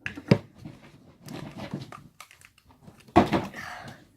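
Handling noises: a few sharp knocks and rustling as slime is worked and added from plastic tubs, the loudest knock just after the start and another about three seconds in.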